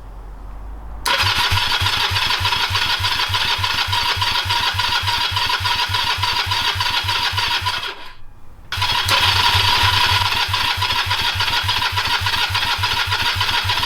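Honda CB250 twin's electric starter cranking the engine in two long bursts with a short pause between, a steady rhythmic chugging with a whine, without the engine catching. The owner takes the failure to start for a fuelling problem.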